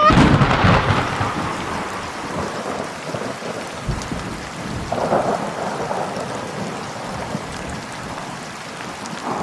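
A thunderclap at the start rolls into steady rain, with another rumble of thunder about five seconds in.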